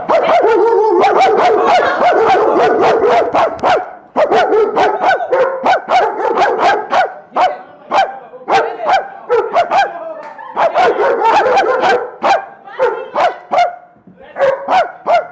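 A dog barking over and over, an almost unbroken run of barks for the first few seconds, then separate barks with short gaps.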